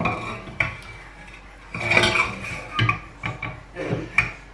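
Metal saucepan of drained potatoes set down on a gas hob, then pots, a bowl and utensils clattering and clinking. There is a series of knocks with a metallic ring, the loudest about two seconds in.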